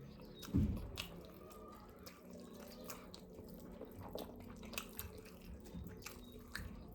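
Wet eating sounds of fufu and soup being eaten: scattered small wet clicks and smacks, with one soft thump about half a second in.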